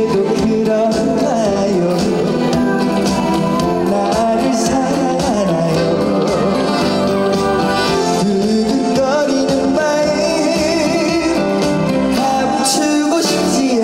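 A male singer singing a Korean trot song live over backing music, his voice wavering with vibrato on held notes.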